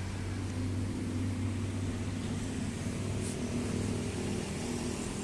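An engine running steadily at idle, a low even hum, with a faint click about three seconds in.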